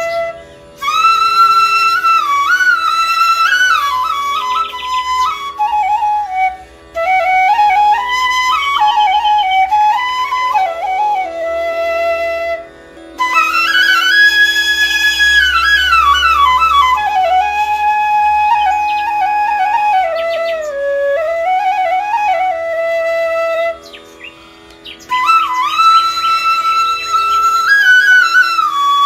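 Background music: a solo flute playing a slow melody in long phrases with short breaks between them, over a steady held drone.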